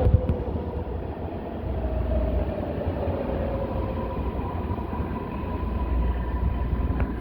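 MARTA rapid-transit train running, with a low rumble and a faint whine from its electric motors that shifts higher partway through, plus a couple of sharp clicks.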